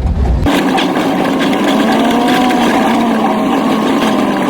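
Old truck's engine running, heard from inside the cab. About half a second in the deep rumble drops away abruptly, leaving a steady whine with several pitches stacked together that drift slightly up and down.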